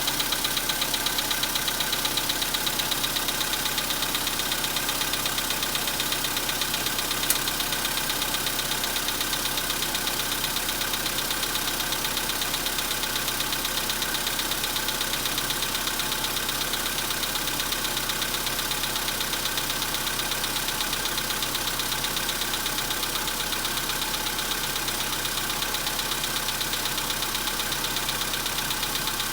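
Volkswagen Polo Sedan's CFNB 1.6-litre four-cylinder petrol engine idling soon after a cold start in frost, with a steady rapid knock from the engine that lasts until it warms up. One sharp click about seven seconds in.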